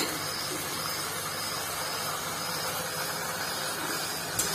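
Steady sizzling hiss of chopped tomatoes frying in hot oil and masala in a steel kadai, with a short click near the end.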